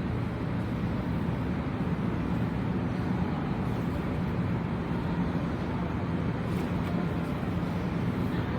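Steady low rumble and hum of a subway station platform, with no distinct events.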